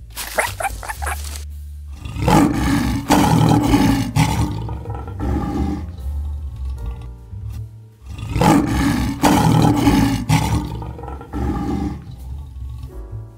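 A large animal roaring, two long roars of about four seconds each, over background music.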